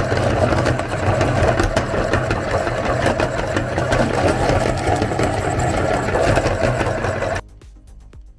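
Electric meat grinder running under load, its motor droning steadily with a dense crackle of chalk sticks being crushed in the auger. It cuts off suddenly about seven seconds in.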